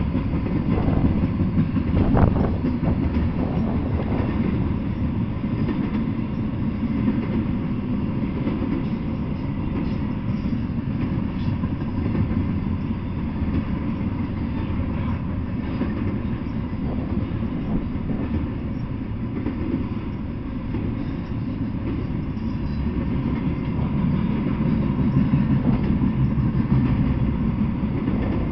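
Double-stack intermodal freight train's container well cars rolling past: a steady low rumble of steel wheels on rail, with a sharp knock about two seconds in.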